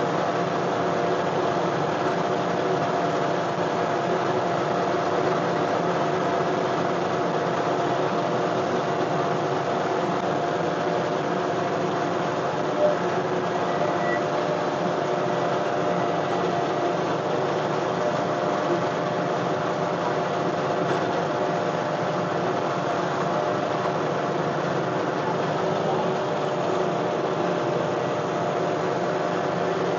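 John Deere 1025R compact tractor's three-cylinder diesel engine running steadily, with an even hum that holds the same pitch throughout.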